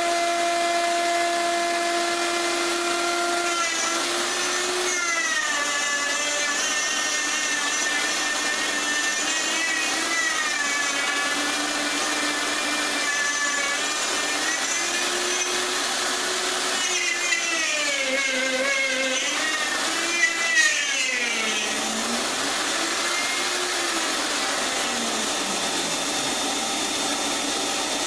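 Electric power tool motor running continuously, its pitch sagging and recovering again and again as the load on it changes, with a couple of brief knocks about two-thirds of the way through.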